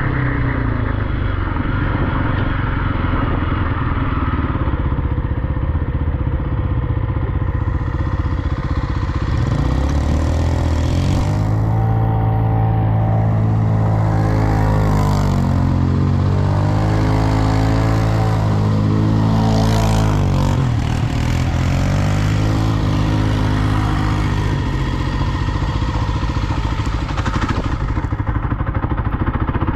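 Dirt bike or quad engine running under way, its pitch rising and falling several times in the middle as it revs up and down.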